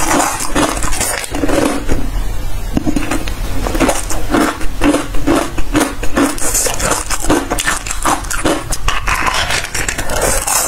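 Close-miked crunching and chewing of a crisp, crunchy snack, a rapid run of crackling crunches bite after bite.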